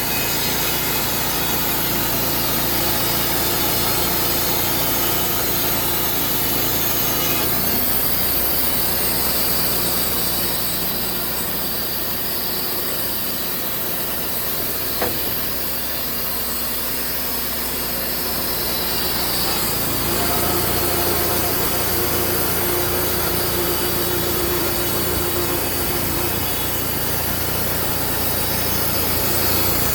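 A motor-driven saw cutting steadily through a log, with the engine running underneath. The sound changes abruptly twice along the way.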